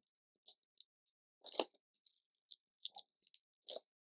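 Plastic LEGO pieces clicking and clattering as they are handled, an irregular scatter of short sharp clicks with the loudest about a second and a half in.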